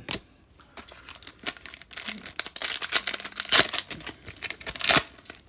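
Trading card pack wrapper being torn open and crinkled by hand, a dense run of crackles with a couple of louder rips near the middle and near the end.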